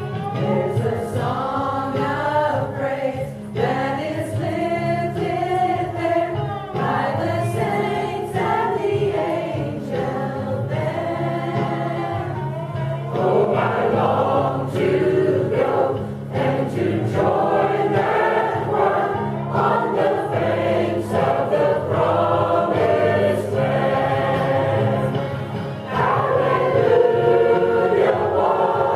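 A group of voices singing a gospel song together over steady low instrumental accompaniment.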